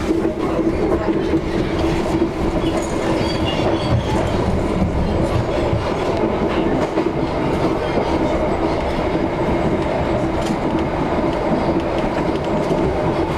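Passenger train running along the track: a steady rumble of wheels on rails with a constant hum and some clickety-clack.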